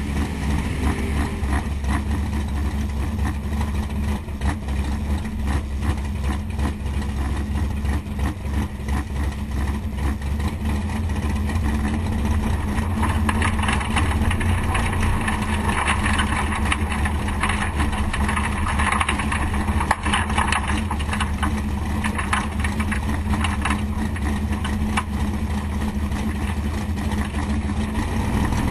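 468 cubic-inch big-block Chevrolet V8 in a drag-race Malibu idling steadily, a little louder from about twelve seconds in.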